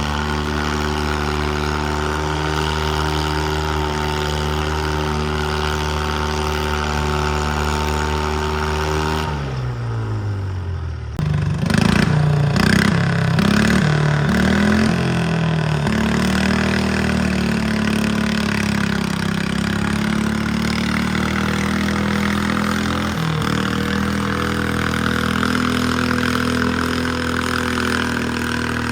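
Pulling garden tractor engine running at a steady high speed, then winding down sharply about nine seconds in. An engine then revs unevenly for a few seconds and settles into a steady run.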